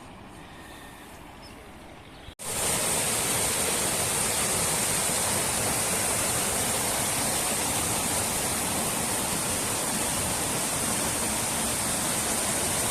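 Mountain river rushing, a steady roar of flowing water. It is fainter for the first two seconds, then after a brief cut it is much louder and closer.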